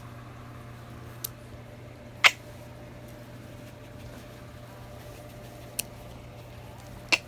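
Pet opossum clicking: four short, sharp clicks spaced irregularly, the second the loudest, over a steady low hum.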